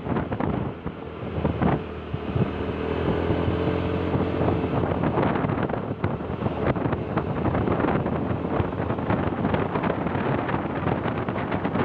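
A motor vehicle travelling along a road, its engine running under a dense rush of wind buffeting the microphone, with scattered knocks and rattles throughout.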